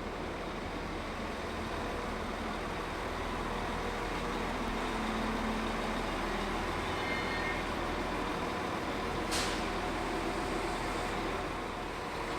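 A train at a station: steady running noise with faint tones, and one short, sharp hiss about nine seconds in.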